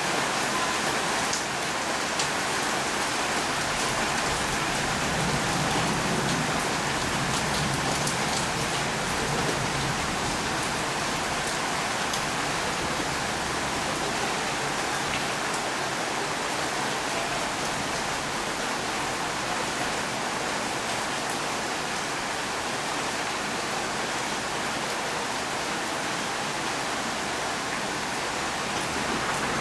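Steady heavy rainfall, an even hiss of rain with faint drop ticks, unchanging throughout.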